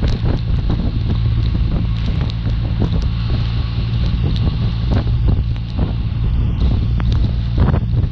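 Gusty wind rushing over the microphone of a moving motorcycle, over the steady low drone of a BMW R1200RT's boxer-twin engine at cruising speed, with scattered short sharp ticks.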